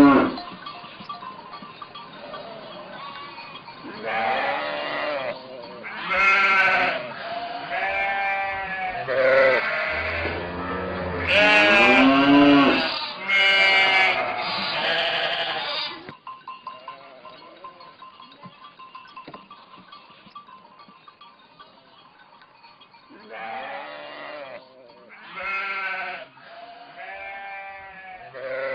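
Sheep bleating, several calls one after another in two bunches, with a quieter lull in between.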